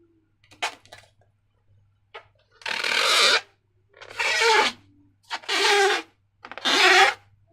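Slime and rubber balloons being handled, making repeated rubbing, squishing strokes about once a second, some with a squeaky rubber tone.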